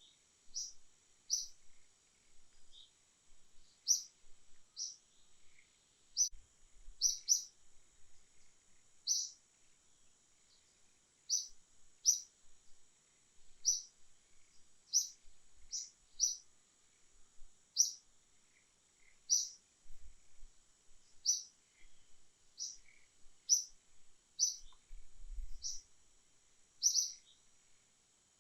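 A bird chirping over and over, short high notes about once a second, over a steady high-pitched hum like insects.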